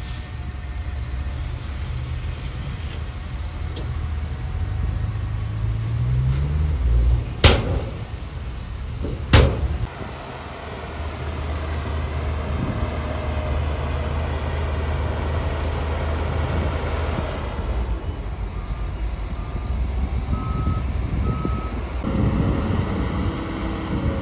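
Diesel engines of heavy earthmoving machines (bulldozer and dump truck) running, with one engine revving up in pitch before two loud, sharp metal clanks about two seconds apart. A few faint reversing-alarm beeps near the end.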